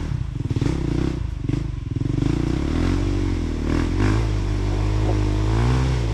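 Off-road motorcycle engine revving up and down repeatedly, as when working a trail bike through rough ground, with some clattering knocks early on.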